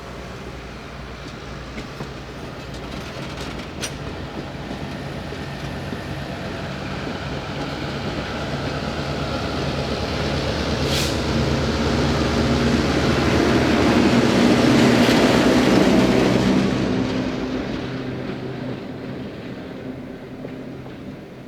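Diesel-hauled excursion train moving along the track, engine drone and wheel-on-rail noise growing steadily louder to a peak about three-quarters of the way through, then fading.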